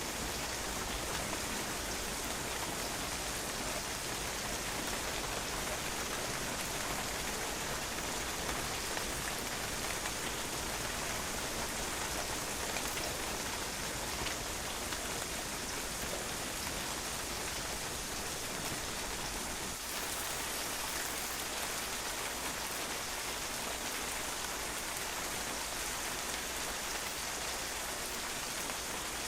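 Steady rain, with drops pattering on a patio, an even unbroken hiss.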